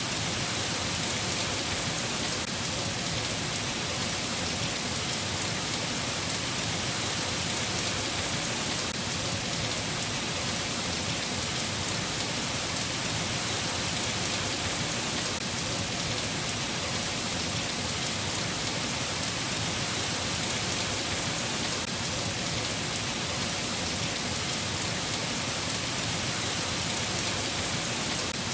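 Steady rain falling, an even continuous hiss with no thunder or separate drops standing out.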